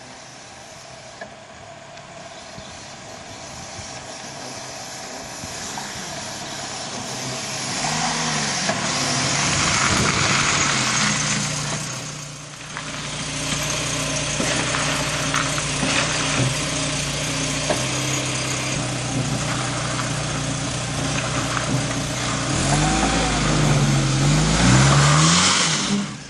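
Volvo 240 engine running as the car drives, getting louder about a quarter of the way in as it comes close. Near the end the revs rise and fall several times.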